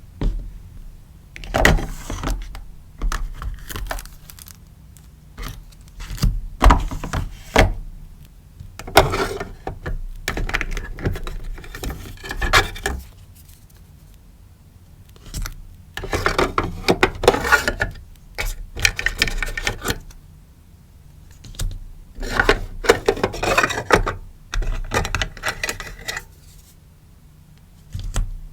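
Stickers and packaging being handled by hand: crinkly rustling of plastic and paper in bursts, with small taps and clicks, stopping briefly several times.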